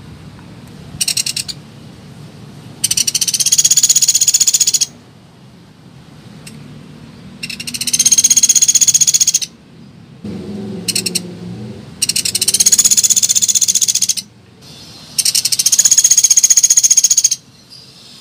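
Pelatuk beras woodpecker calls, as used for a bird lure: a series of rapid, high, rattling trills, each about two seconds long, repeated every few seconds, with two short trills in between.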